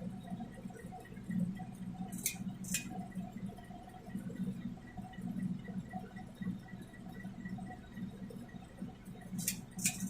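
13-inch Casablanca Zephyr ceiling fan running, a steady low motor hum with a faint pulsing tone above it. Two short high chirps come about two seconds in and two more near the end.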